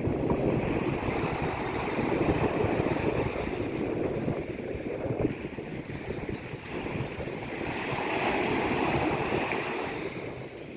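Sea waves breaking and washing on a shore, a continuous rush of surf that swells and eases.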